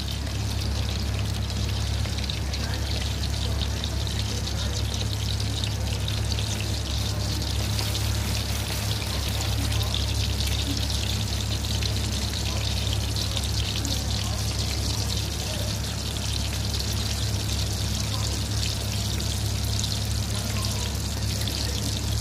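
Batter-coated chicken pieces deep-frying in hot oil in a pan: a steady crackling sizzle, with a steady low hum underneath.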